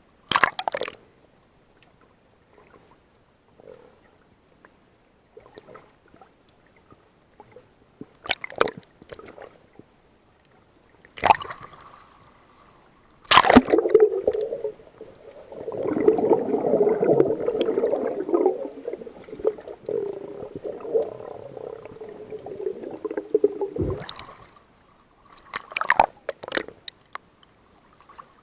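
Water sloshing and gurgling, with a few sharp knocks or splashes scattered through. A longer churning gurgle starts about halfway in and lasts about ten seconds.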